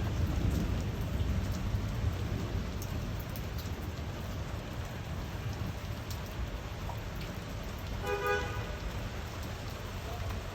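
Steady rain falling, with scattered sharp drop ticks. A short vehicle horn toot sounds once, about eight seconds in.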